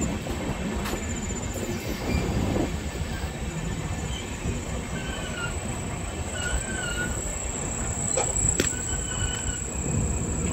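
Passenger train running at speed, heard from its open doorway: a steady rumble of wheels on rail with a few sharp clacks over the rail joints. A faint wavering wheel squeal comes in during the second half.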